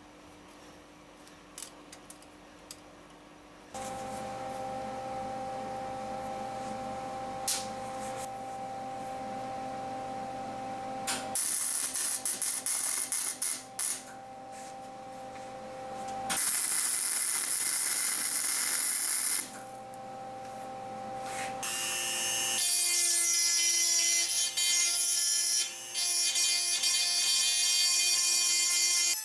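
Electric power tool switched on about four seconds in and running with a steady hum, then used in loud, hissing spells that start and stop, with the motor running between them.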